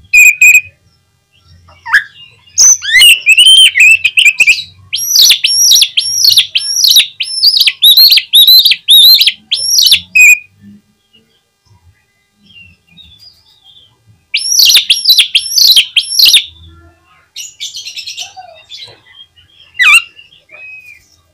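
Oriental magpie-robin (kacer) singing loudly: a long run of quick, repeated whistled notes, each sweeping up and down in pitch, then a shorter run a few seconds later, with scattered single calls in between.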